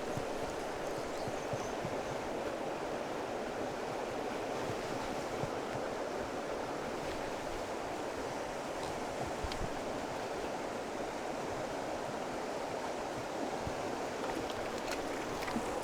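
River water flowing steadily, an even rushing sound with a few faint ticks.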